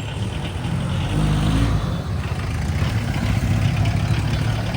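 A car engine running with road noise, its pitch rising briefly about a second in as it accelerates.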